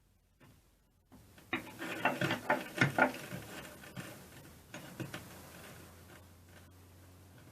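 Clicks and light knocks of small metal air compressor parts being handled, with a close cluster of them about two seconds in and a few fainter clicks after.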